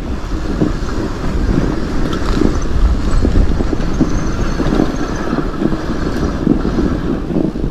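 Norco Bigfoot fat bike riding over snow and ice: continuous crunching and rattling, with many short knocks from the tyres and bike, over a low rumble.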